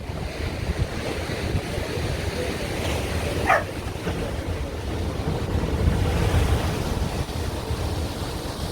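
Ocean surf breaking and washing ashore, with wind buffeting the microphone as a low rumble. A brief rising squeak about three and a half seconds in.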